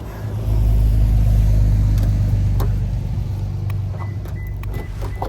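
A car engine running as a low, steady hum. It comes up about half a second in, is loudest for the next couple of seconds, then eases off.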